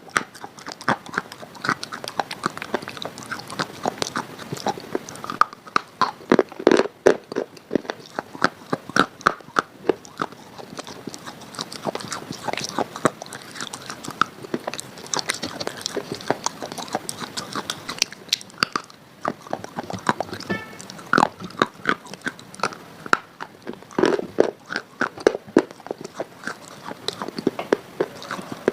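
A person biting and chewing something crunchy close to the microphone: a dense, irregular run of sharp crunches and snaps, with louder bites now and then.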